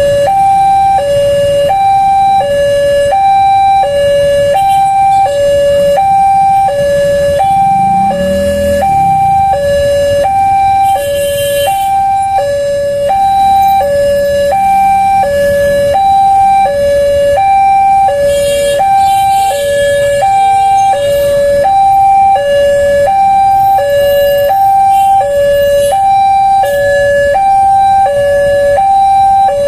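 Railway level-crossing warning alarm: an electronic two-tone signal alternating steadily between a lower and a higher note, each held for under a second, which warns that a train is approaching.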